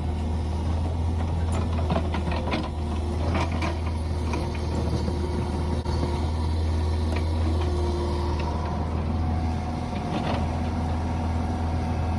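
Mini excavator's diesel engine running steadily under a hydraulic working load, with a few short knocks about two to three seconds in and again near the end.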